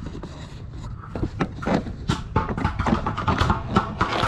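A run of irregular clicks and knocks, several a second and growing louder from about a second in, over a low steady rumble.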